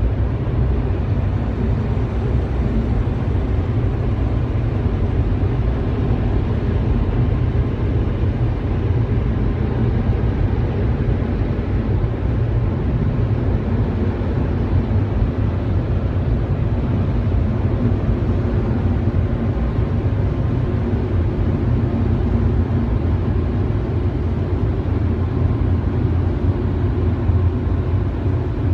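Automatic car wash running: a steady, even low rumble with a hiss above it that does not change.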